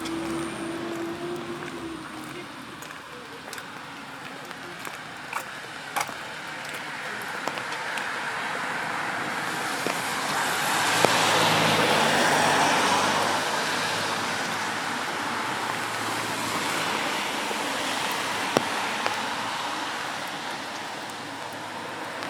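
Traffic on a wet street: a steady hiss of tyres on wet road that swells as a car passes, loudest about twelve seconds in, with a few sharp ticks scattered through.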